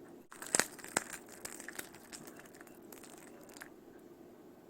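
Tableware being handled: two sharp clicks about half a second and a second in, then lighter scattered clicks and crinkling.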